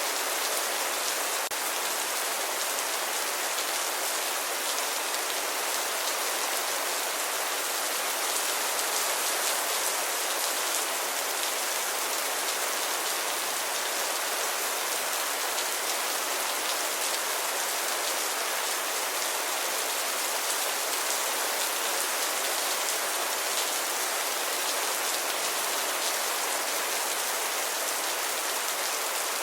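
Steady rain falling, a dense even hiss of drops with fine patter, unchanging throughout.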